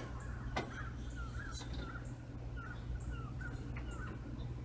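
Small birds chirping over and over in short, bending chirps, with a few light clicks of engine parts being handled and a low steady hum underneath.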